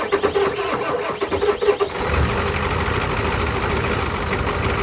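Ford 7.3 IDI turbo diesel V8 cranking on the starter for about two seconds, then firing and running on its own, a little rough, after sitting for years with freshly bled fuel lines.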